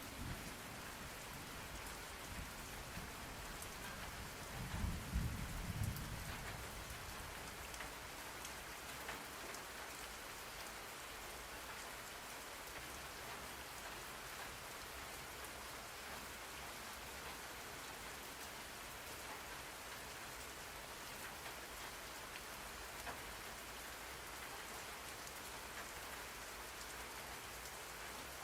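Steady rain falling on surfaces, an even hiss of drops. About five seconds in a short low rumble of thunder rises and fades.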